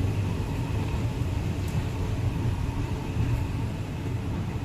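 Steady low rumble and hiss of a passenger train running.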